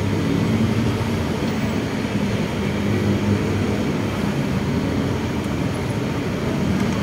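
A steady low rumble of running machinery, even in level throughout, with no distinct knocks or clicks.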